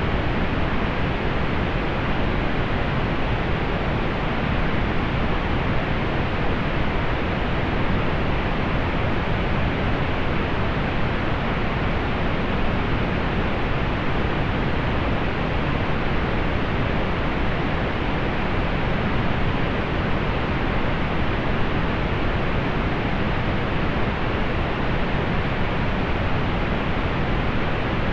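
Steady pink noise: an even, unchanging hiss, fuller in the low end and rolled off in the highs, with no events in it.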